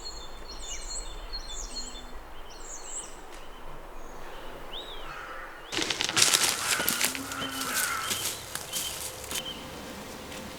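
Birds calling in the bush with short chirps and whistles; a little over halfway in, a louder stretch of crackling and rustling starts suddenly, with more bird calls over it.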